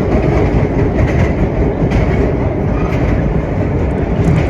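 Vintage R1-9 subway car running at speed, heard from inside: a steady rumble of steel wheels on the rails with clickety-clack over rail joints.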